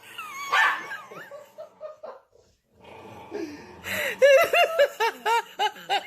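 A person laughing, breaking into a fast run of short laughs, about five a second, in the second half.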